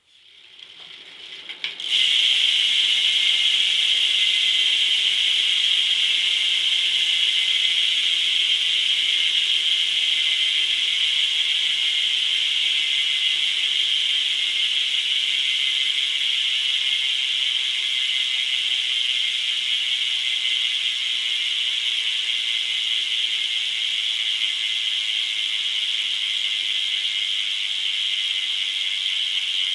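Eastern 9er BMX rear hub freewheeling as the rear wheel spins. Its pawls click so fast that they merge into a loud, steady, high ratcheting buzz. The buzz comes up to full strength about two seconds in and fades only slightly after that.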